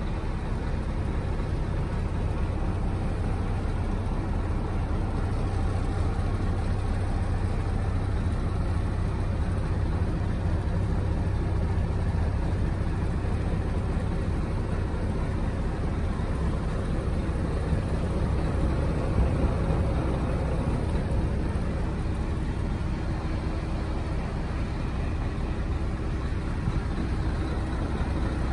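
Scania 450 truck's diesel engine running steadily at an even speed.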